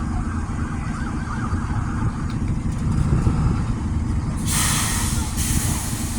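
Low rumble of vehicle engines and street traffic, with a burst of hissing about four and a half seconds in that lasts about a second.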